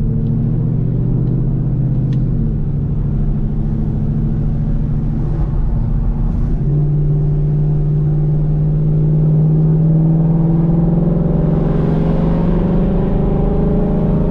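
2018 Mustang GT's 5.0 L V8 through a Borla ATAK axle-back exhaust with X-pipe resonator delete, running under way with a deep exhaust note. About two-thirds of the way through the first half the note settles into a stronger, steady tone that climbs slowly in pitch toward the end.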